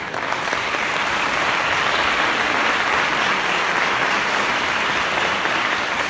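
Audience applauding, swelling in the first second into steady, dense clapping.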